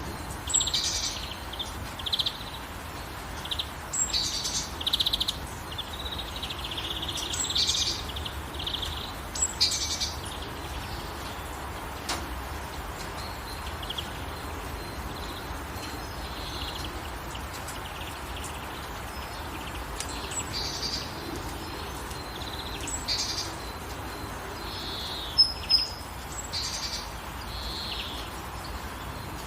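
Several birds chirping and trilling in short phrases over a steady hiss of light rain, with two sharp, louder chirps near the end.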